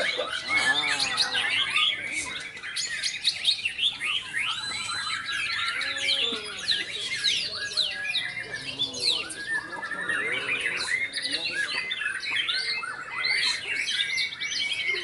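Caged white-rumped shamas (murai batu) singing without pause: a dense, varied song of rapid chirps, trills and whistles, with lower rounded notes mixed in.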